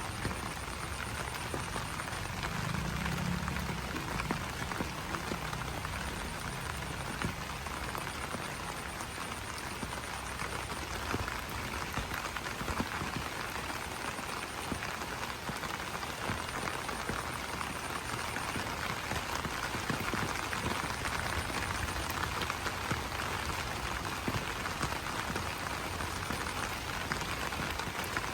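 Steady rain pattering on broad banana leaves. A low call stands out about three seconds in and fades over the next few seconds, and a faint high pulsing trill comes and goes.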